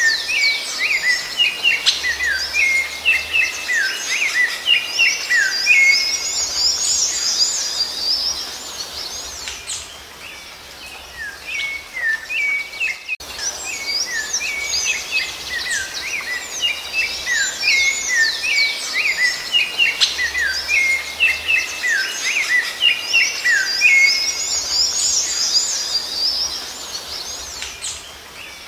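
Rufous-bellied thrush (sabiá-laranjeira) singing: quick runs of short whistled notes and chirps. There is a brief lull about a third of the way in, then the same kind of passage starts again.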